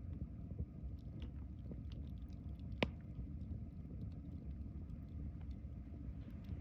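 Wood fire crackling in a Solo Stove fire pit: scattered small pops over a low steady rumble, with one sharper pop about three seconds in.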